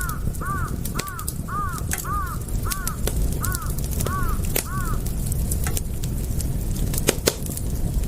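Wood fire crackling and popping over a steady low rumble, while a bird repeats a short call about ten times, roughly twice a second, stopping about five seconds in.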